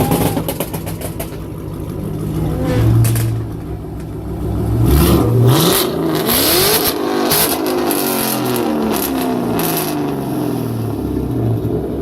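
Car engine revving hard several times, the pitch climbing and dropping in quick sweeps, with sharp crackles in between.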